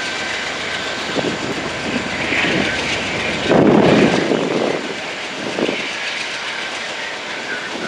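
Passing train: a steady rumble of wheels on the rails, with a louder surge about three and a half seconds in.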